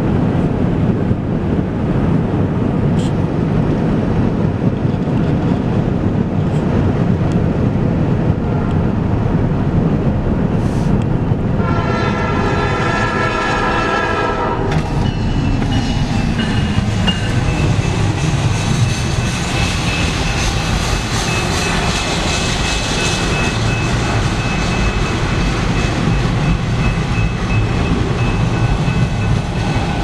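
Canadian Pacific freight train approaching and passing, its locomotive rumbling. The locomotive horn sounds one chord about 12 seconds in, lasting about three seconds. The cars then roll by with rail noise and a steady high-pitched squeal.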